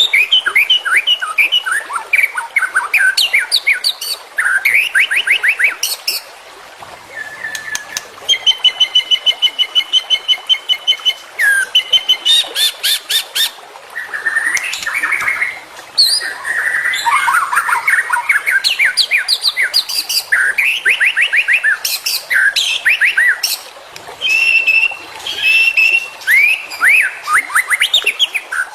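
White-rumped shama (murai batu) singing a loud, varied song: bursts of fast repeated notes and trills alternating with clear whistled phrases, broken by short pauses, including a long, rapid run of notes on one pitch about a third of the way in.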